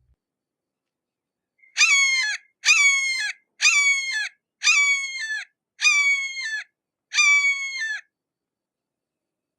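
A hawk calling six times in a row, each cry lasting a little under a second, held on one pitch and then dropping away at the end.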